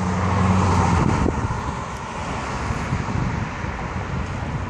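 Pontiac G8 GT's V8 passing close, a steady engine note for about the first second, then fading into road and traffic noise as the car drives away.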